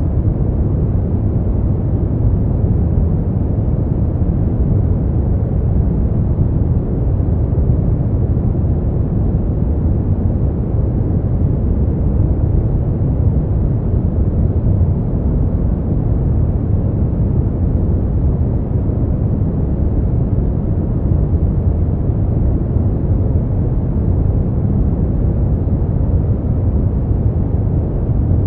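Steady brown noise: an even, deep rushing hiss with its weight in the low end and little above the mid range, unchanging throughout.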